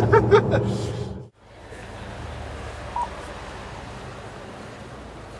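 A Bentley Continental Supersports' engine running inside the cabin under a few words, cutting off abruptly after about a second. It is followed by a quieter, steady low engine hum with outdoor background noise, and a short beep about three seconds in.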